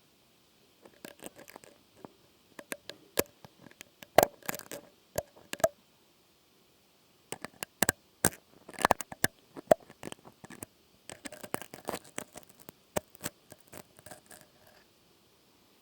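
Close-miked ASMR trigger sounds: irregular clusters of sharp taps, clicks and light scratches on a small object. They come in bursts, with a short pause about six seconds in and another near the end.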